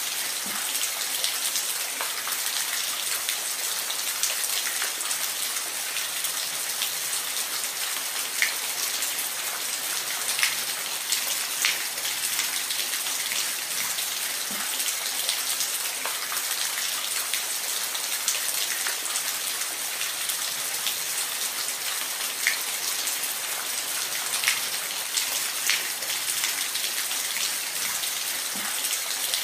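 Waterfall: a steady rush of falling water, with scattered sharp drip-like splashes.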